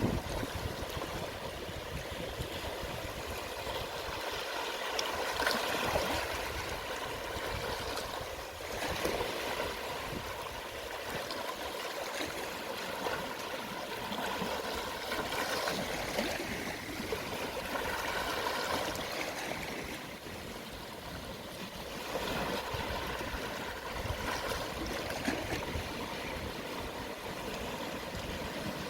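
Small, calm sea waves washing onto the shore at low tide, a steady hiss of water that swells and eases every few seconds.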